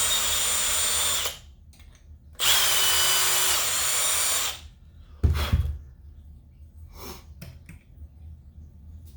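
Electric drill running in two bursts of about two seconds each with a steady high whine, taking aluminium off the heavy side of a model-engine fan flywheel to balance it. A heavy thud follows about a second after the second burst, then a few light clicks.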